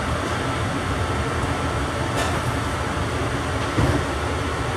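AirTrain JFK people-mover car running along its elevated guideway, heard from inside the cabin as a steady low rumble. A sharp click a little over two seconds in and a short knock near the end.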